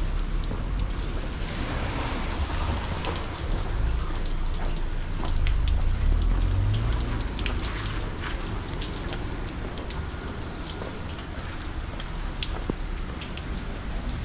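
Steady rain falling, with many small close drop ticks over an even hiss and a low rumble underneath.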